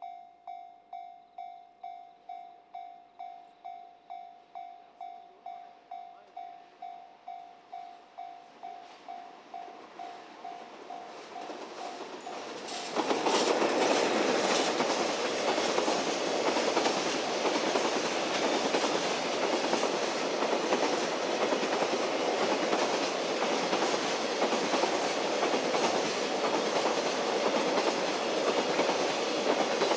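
Railway level-crossing warning bell ringing about twice a second, then about thirteen seconds in a freight train reaches the spot and passes close by, its wheels running loudly on the rails with a clickety-clack over the rail joints.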